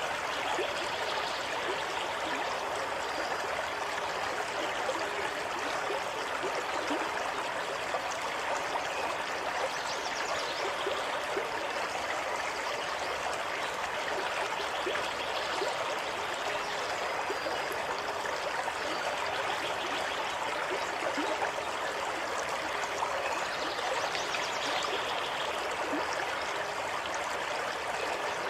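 Running water of a stream flowing steadily, a continuous even rush.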